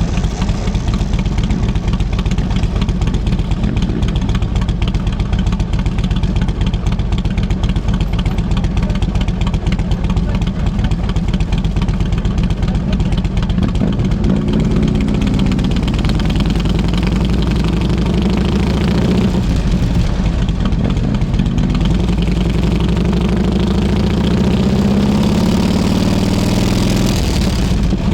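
Harley-Davidson Road King Classic's V-twin engine running steadily while riding, its pitch rising over the last several seconds as it speeds up.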